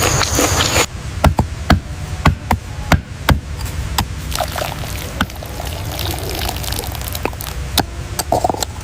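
Liquid being poured, with irregular sharp clicks and taps over a low rumble. A different, noisier sound cuts off about a second in.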